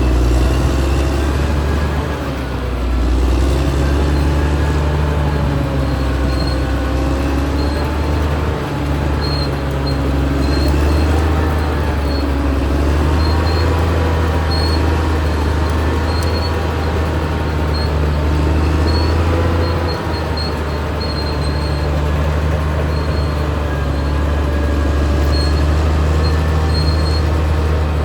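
Caterpillar D6R XL bulldozer's diesel engine running under working load, its pitch slowly rising and falling, with short high squeaks from the steel tracks recurring throughout.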